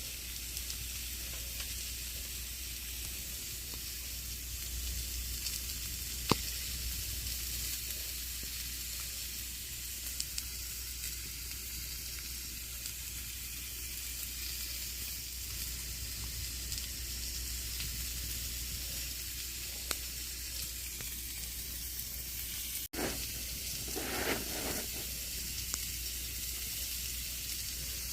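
Campfire burning: a steady crackling hiss with a few sharp pops. A split-second dropout near the end.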